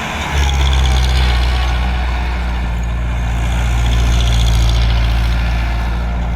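Tractor diesel engine running steadily with a deep, loud hum, after a brief dip in level at the very start.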